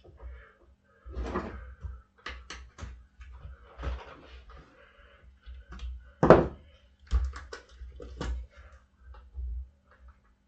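Scattered knocks, clicks and scrapes of hand tools on a dirt bike wheel as a tire is levered onto the rim, with metal tire levers and vice grips against the rim. The loudest knock comes just past six seconds in, followed by a quick run of sharp clicks.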